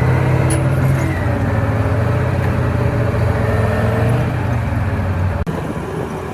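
Steady low engine hum of a motor vehicle running, with a brief break about five and a half seconds in.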